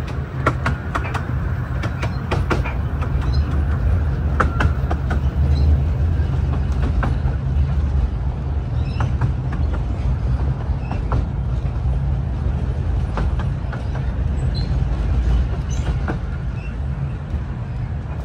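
Carriage of the Romney, Hythe & Dymchurch Railway's 15-inch-gauge miniature steam train running along the track: a steady low rumble with irregular clicks and knocks from the wheels and rails.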